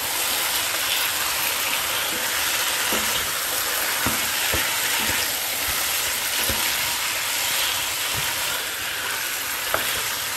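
Chicken pieces in curry paste sizzling steadily as they fry in hot oil, while a spatula stirs and turns them, knocking against the pot now and then.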